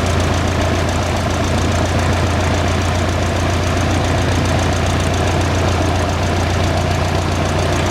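1946 Cessna 120's four-cylinder air-cooled engine and propeller running steadily at low taxiing power, a constant low hum with an even beat.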